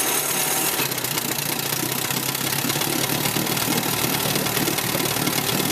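Restored Johnson 18 hp two-stroke twin outboard running steadily just after it has started.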